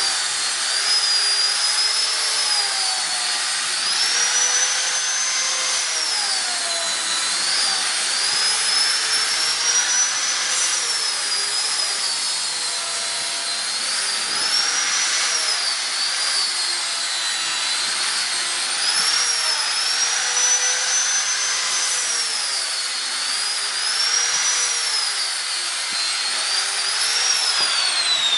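High-speed hand-held grinder fitted with a coarse 100-grit sanding disc, rough-sanding the edges of a square bird-cage bar round: a steady motor whine over a sanding hiss, its pitch dipping and recovering as the disc is pressed into the work. Near the end the motor is switched off and winds down in a falling whine.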